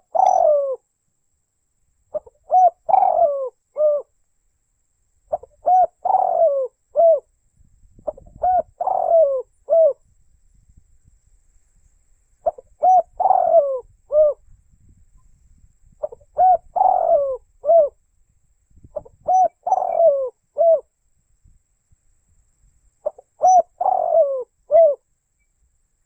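Spotted dove (tekukur) cooing: the same short phrase of three or four mellow coos repeats about every three to four seconds, eight times in all.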